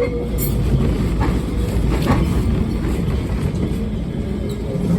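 Electric tram running on its rails, heard from on board: a steady low rumble with a few sharp clicks in the first two seconds.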